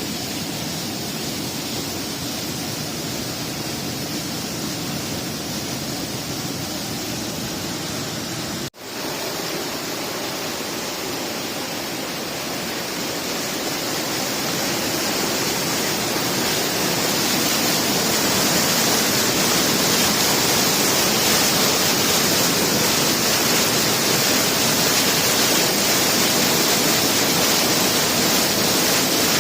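Steady rushing of flowing water, which drops out for a moment near a third of the way in and then grows louder and brighter.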